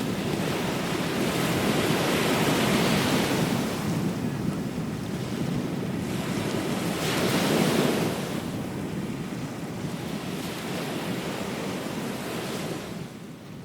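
Ocean waves breaking on a beach, with wind on the microphone. The surf swells twice, at about 2–3 seconds and again at 7–8 seconds, and then drops away suddenly near the end.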